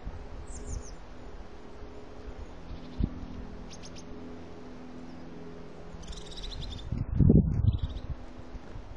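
Wild birds chirping in short, high notes, with a quick run of calls about six seconds in. About seven seconds in comes a louder, low rustling noise.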